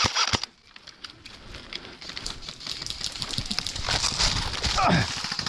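The last shots of a rapid burst from an airsoft electric rifle, a SPARTAC AK47M Tactical, cut off about half a second in. A growing crackling, rustling clatter of dense small clicks follows, with a brief falling tone near the end.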